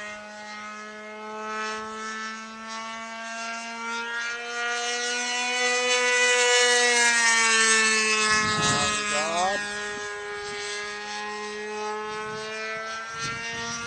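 RC model airplane's engine whining steadily in flight through a Cuban eight. Its pitch and loudness rise to a peak about halfway through, then fall away as the plane passes.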